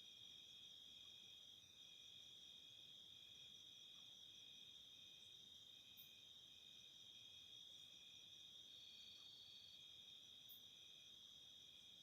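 Faint insect chorus, typical of crickets: a steady high-pitched trill, with another insect chirping in a regular pulse, about three chirps every two seconds.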